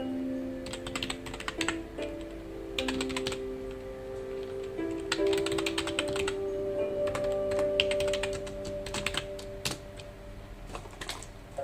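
Typing on a computer keyboard in short bursts of rapid key clicks with brief pauses between them, over soft background music of held notes.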